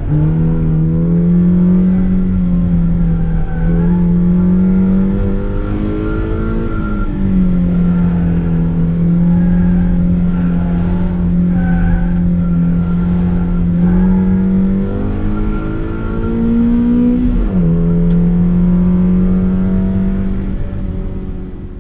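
Autoslalom car's engine heard from inside the cabin, held at high revs, its pitch rising and falling repeatedly as the driver works the throttle through the course. There is a quick drop and recovery about three-quarters of the way through, and the sound fades out at the very end.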